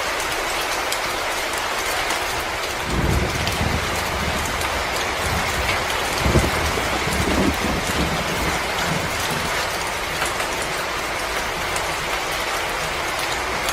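Wood fire crackling in a fireplace: many small irregular snaps over a steady hiss, with low rumbling swells about three seconds in and again around six to seven seconds.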